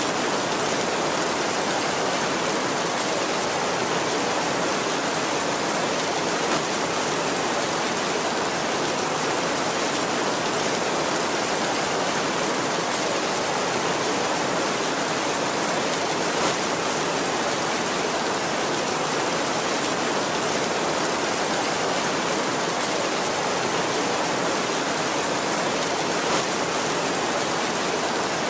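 Heavy rain beating steadily on a tin roof, a dense even hiss with a sharper tap standing out now and then.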